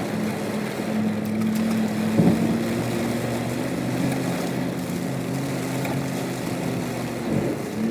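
Off-road vehicle engine running at a steady, moderate speed, with a sudden loud jolt about two seconds in and a short dip in engine note near the end.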